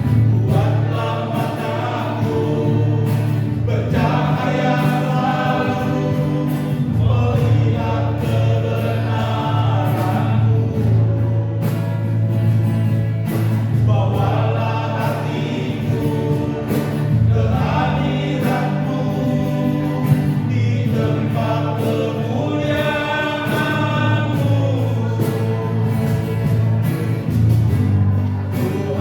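A choir singing in phrases of a few seconds, over a steady, sustained low accompaniment.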